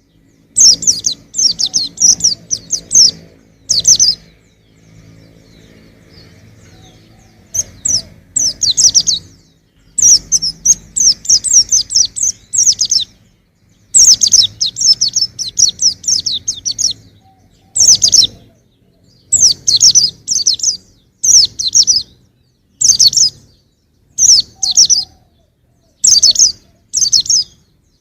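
Young white-eye (pleci) singing in quick, high-pitched twittering phrases, each a run of rapid chirps, repeated with short breaks and one pause of about three seconds about four seconds in.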